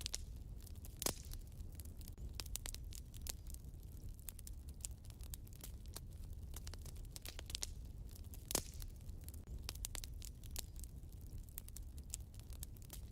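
Wood fire burning in a fireplace: steady crackling made of many small snaps, with two louder pops, one about a second in and one about two-thirds of the way through, over a low steady rumble.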